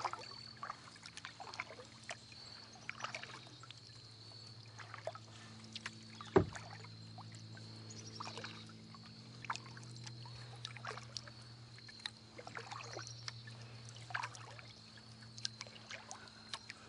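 Kayak paddle strokes dipping into the water, with splashes and drips coming at irregular intervals. A single sharp knock about six seconds in is the loudest sound.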